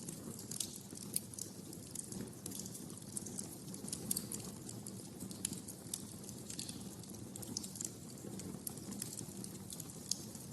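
Wood fire burning in a fireplace: irregular sharp crackles and pops over a low, steady rush of the flames.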